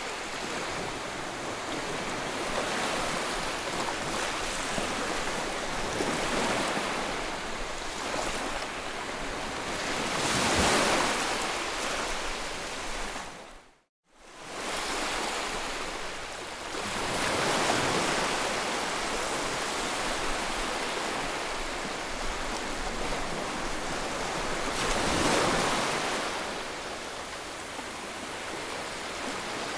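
Ocean surf: waves breaking and washing in, swelling and easing every several seconds. About fourteen seconds in, the sound fades out to silence for a moment and comes straight back.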